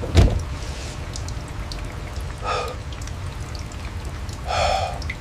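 Steady rain, with a knock just after the start and two short vocal sounds from a person about two seconds apart.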